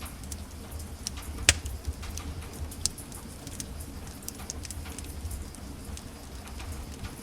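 Wood fire in a fireplace crackling, with scattered sharp snaps and one loud pop about a second and a half in, over the low steady rumble of the flames.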